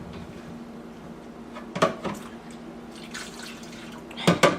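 Water dripping and splashing in a kitchen sink as a child plays with dishes and fills a bucket, with brief louder sounds about two seconds in and again near the end.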